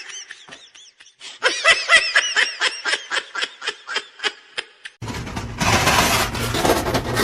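A person laughing in quick high-pitched bursts, two fits that each die away. About five seconds in, it cuts to a steady noisy background.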